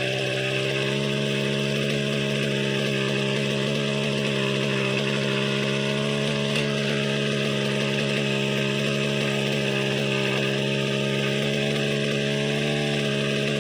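Petrol brushcutter engine running steadily at a constant speed, its pitch rising slightly about a second in.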